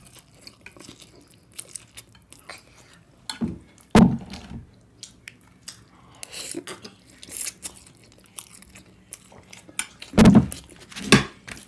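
Close-up eating sounds: chewing and biting with wet mouth smacks and a few louder clicks and crunches, the strongest about four seconds in and again near the end.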